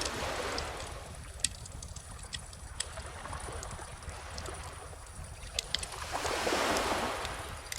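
Beach bonfire crackling with scattered sharp pops, over calm ocean waves. A wave swells and washes in about six seconds in, the loudest part, then fades.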